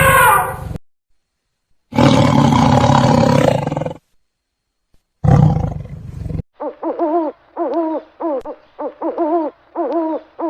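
Animal calls one after another with short silent gaps: two rough, noisy calls heavy in the low end, then a quick run of about seven short pitched calls, each with a bending tone, at roughly two a second.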